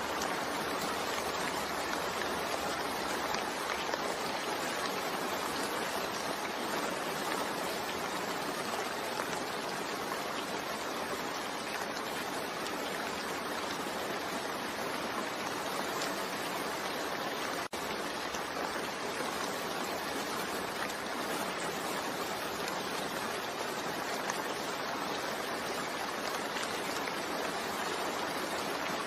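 Steady, continuous rain mixed with white noise: an even hiss with no distinct drops standing out. There is a momentary dropout about two-thirds of the way through.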